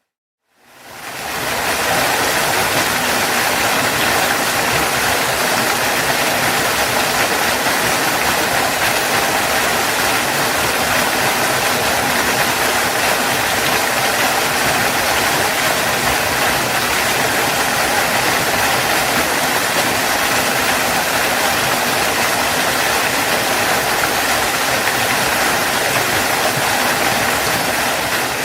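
Waterfall rushing in a steady, dense roar of falling water, fading in from silence over the first second or two and fading out near the end.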